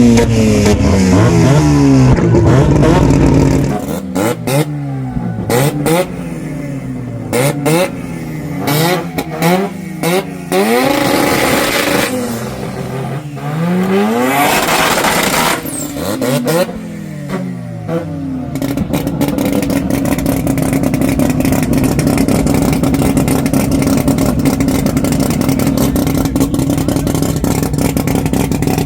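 Car engine being revved again and again, its pitch rising and falling with each blip. From about two-thirds in it settles into a steady, choppy idle.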